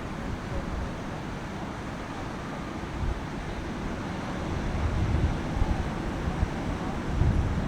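Ocean surf washing with wind buffeting the microphone in low rumbling gusts, strongest about five seconds in and again near the end.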